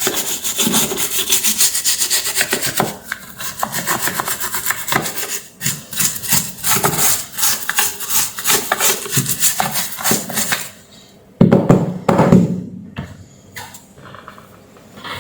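Rapid back-and-forth rubbing or scraping strokes, many a second, for about ten seconds. Then comes a short, louder, deeper burst of handling noise.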